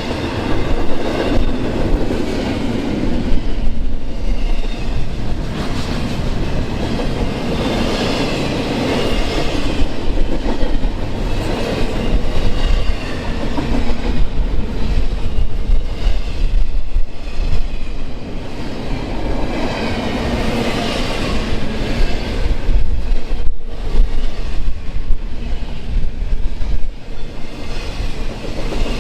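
A train passing close by: steel wheels clacking over rail joints under a steady rumble, with a wavering high wheel squeal.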